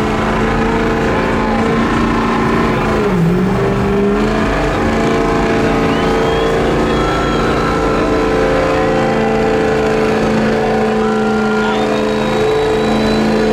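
Truck engines running at a steady high speed, with a brief dip in pitch about three seconds in.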